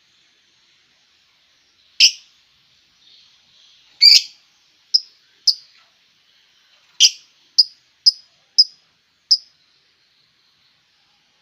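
A songbird giving short, sharp chirps: nine in all, irregularly spaced, coming quicker from about seven seconds in.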